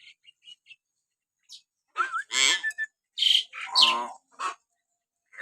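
Hill myna (beo) calling: a few faint clicks, then from about two seconds in a quick series of short harsh calls and whistles, some sliding in pitch.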